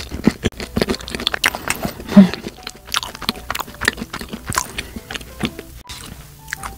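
Chewing and mouth sounds from eating the last bite of a cream-filled salt bread roll: a run of many small wet clicks and smacks.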